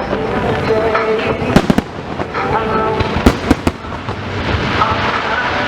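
Aerial fireworks bursting in a series of sharp bangs, some in quick pairs.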